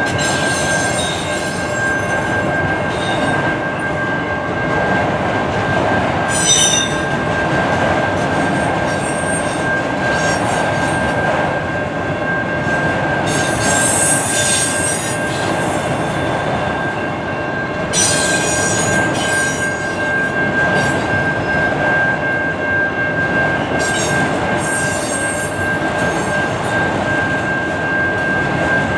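Freight train rolling past on the rails, with steady wheel-and-car noise, a thin high wheel squeal held throughout and short sharper screeches from the wheels several times.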